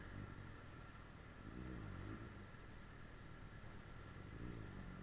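Suzuki GSF 600 Bandit S inline-four engine running faintly, its pitch rising and falling several times as the throttle is opened and closed.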